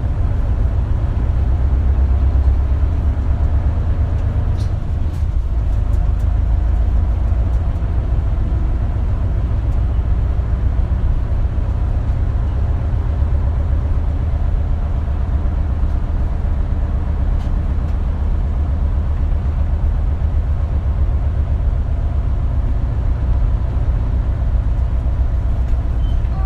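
Diesel engine of a KL-LV280L1 city bus heard from inside the cabin, a steady low drone as the bus travels, with a few faint clicks.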